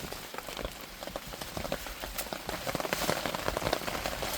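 Heavy rain falling, with many separate drops ticking close by; it grows a little louder about three seconds in.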